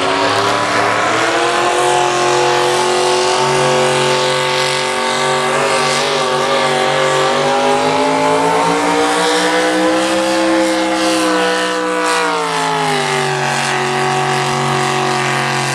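Naturally aspirated big-block V8 of a two-wheel-drive pulling truck running hard under load. The engine note climbs, sags briefly, peaks about ten seconds in, then drops and holds steady near the end.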